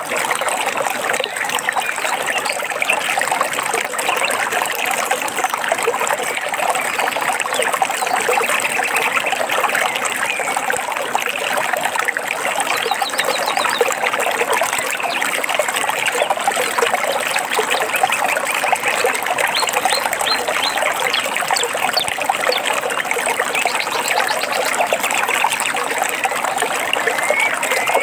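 A forest stream trickling and babbling steadily, with short bird trills and chirps over it now and then.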